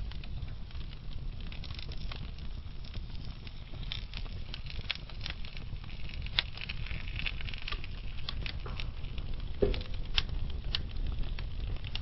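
Burning wood logs crackling slowly: a steady low rumble of the fire with scattered sharp crackles and pops, the loudest pop about ten seconds in.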